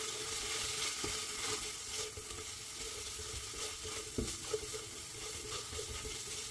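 Shrimp sizzling in butter and sauce in a hot wok while a spatula stirs and scrapes them around the pan, with a couple of light knocks about four seconds in.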